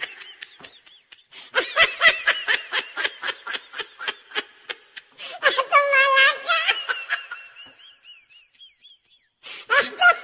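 Hearty laughter in quick repeated bursts, rising about halfway through to a high, drawn-out squeal that trails off into faint high wavering sounds; a fresh burst of laughter starts near the end.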